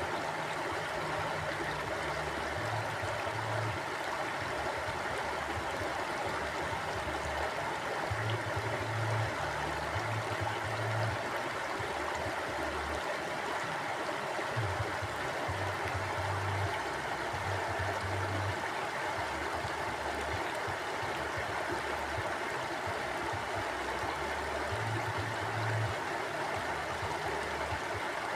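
Stream water flowing steadily over rocks, an even rushing and babbling, with a low rumble that comes and goes.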